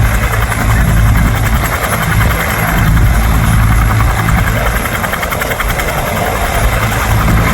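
An AH-1F Cobra attack helicopter running steadily in flight: its single turboshaft engine and two-blade rotor make a loud, continuous noise.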